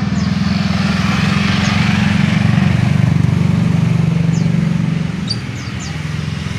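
A motor engine running steadily with a low, fast-pulsing rumble that eases slightly near the end. A few short, high falling chirps from birds come through over it.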